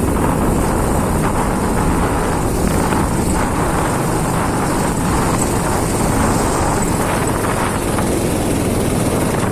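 Vehicle engine running steadily on a rough off-road trail, with heavy wind rumble on the phone's microphone.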